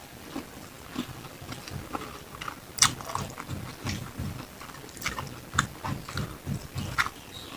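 Close-miked chewing and biting of grilled beef satay, with irregular wet mouth sounds and sharp clicks, the loudest a little under three seconds in.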